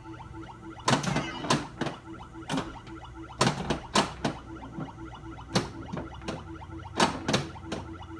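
Pinball machine in play: about a dozen sharp mechanical clacks from flippers, solenoids and the ball striking parts of the playfield, at uneven intervals. Under them runs the game's steady pulsing electronic background sound from a Bally Squawk & Talk-type sound board.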